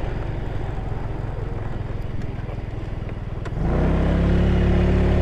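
Ice Bear Hawkeye 150cc scooter's GY6 single-cylinder four-stroke engine running while riding at low speed. About three and a half seconds in, the throttle opens and the engine gets louder and rises slightly in pitch.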